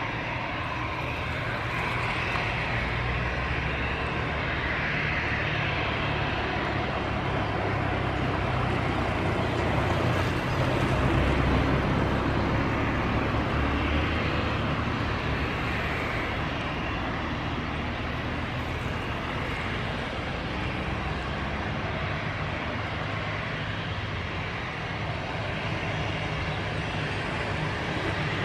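Airbus A319 jet engines running at taxi power: a steady engine noise that swells a little about ten seconds in, then eases off.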